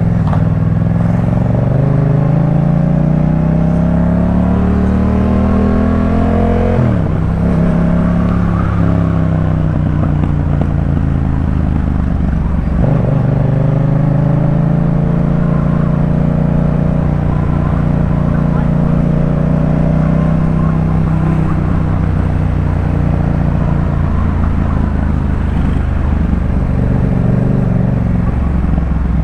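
Yamaha MT-07's parallel-twin engine through a Jeskap K4 full exhaust system, accelerating with a rising pitch that drops sharply at two gear changes, about seven and thirteen seconds in, then running at a steady cruise.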